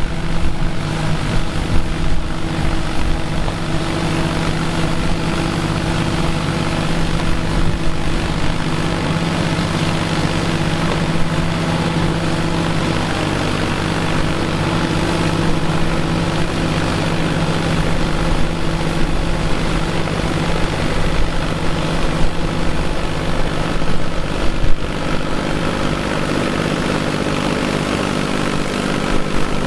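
Vintage farm machinery engine running steadily at a constant speed.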